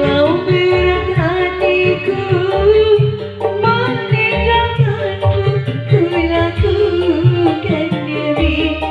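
An Indonesian-language song: a sung melody that bends in pitch over a steady hand-drum and bass beat.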